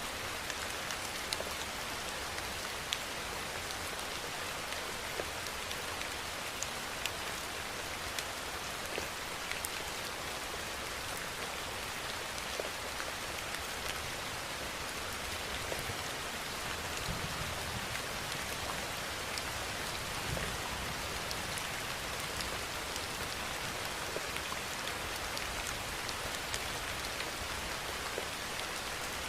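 Steady rainfall: an even hiss of rain with many separate drops ticking sharply through it.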